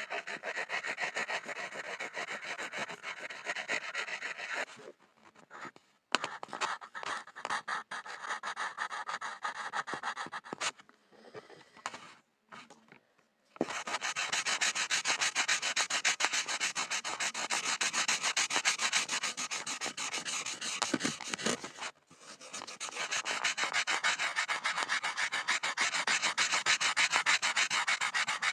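Pencil scribbling on a board: dense, continuous scratching. After about five seconds it thins to short separate strokes with brief silences between them, then resumes as steady scribbling, with one short break about three-quarters of the way through.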